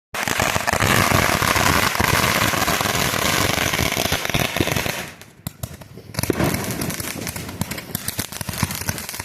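Multi-shot firework going off with a dense, rapid crackle of many small pops. The crackling drops away briefly about five seconds in, then resumes lighter with scattered pops.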